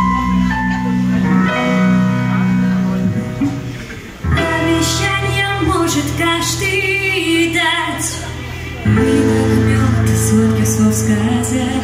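Live pop-rock band playing a song, with a woman singing over piano, electric guitar, bass guitar and drums. The low end drops out briefly a few seconds in, then the full band comes back.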